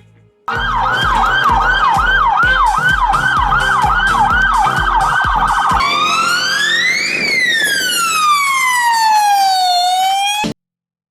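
Electronic police-style siren: a fast yelp of quick repeated rising sweeps, about two and a half a second with a low pulse under each. About six seconds in it changes to one slow wail that rises and then falls, and it cuts off suddenly shortly before the end.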